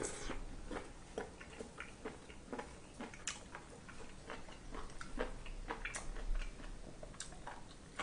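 A person chewing a mouthful of food: irregular small smacks and clicks, a few a second.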